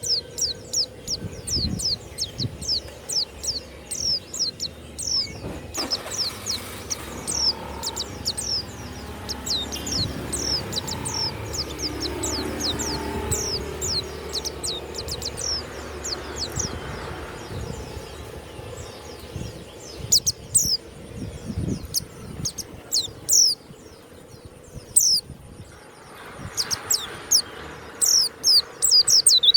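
White-eye (pleci) singing in rapid runs of short, sharp, high chirps that each fall in pitch. The song thins out through the middle, where a low rumbling background noise takes over, and comes back in dense runs near the end.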